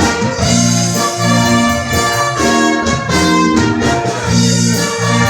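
Live band playing a slow melody, with brass instruments carrying long held notes.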